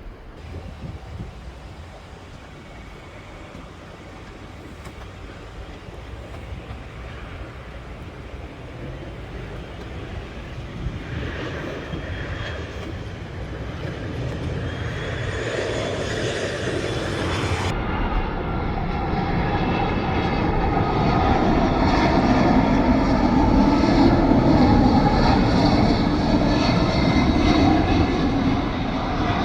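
EasyJet airliner's jet engines on landing approach, a steady rumble that grows louder as the aircraft comes nearer, loudest about three quarters of the way through.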